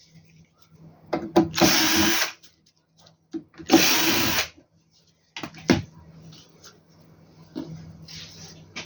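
Cordless electric screwdriver or drill running in two short bursts, backing out the screws of the inverter's cover, followed by a few clicks and light handling noises.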